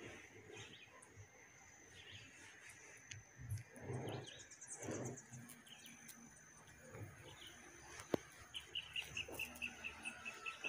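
Faint birdsong outdoors: scattered chirps and a short fast trill, then a rapid run of evenly repeated notes, about six a second, starting near the end. A single sharp click about eight seconds in.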